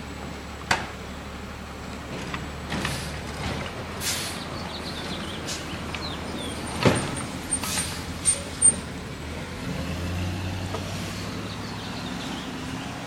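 Garbage truck's diesel engine running steadily, with several sharp clanks and bangs and a few short hisses as it collects yard waste; the engine note rises somewhat near the end.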